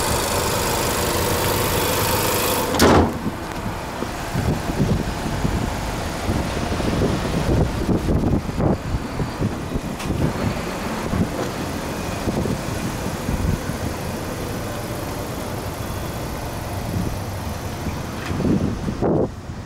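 Nissan Serena C26's 2.0-litre four-cylinder engine idling, heard close in the open engine bay as a steady hum. About three seconds in there is a single loud thump, typical of the hood being shut. After that comes a rougher, fainter mix of the idle, wind on the microphone and scattered knocks.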